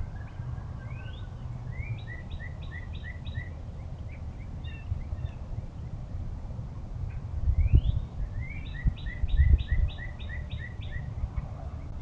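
A songbird singing twice. Each song is a rising slurred note followed by a quick run of repeated notes, about five the first time and about eight the second. Low rumble and thumps of wind on the microphone sit under it, louder in the second half.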